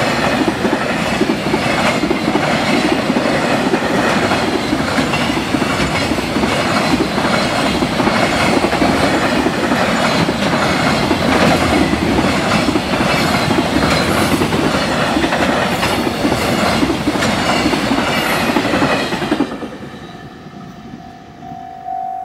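Long freight train of container wagons passing through a level crossing at speed: a loud rolling rumble with a regular clickety-clack of wheels over the rail joints. About 19 s in, the last wagon clears and the noise falls away suddenly, leaving a pulsing level-crossing warning bell.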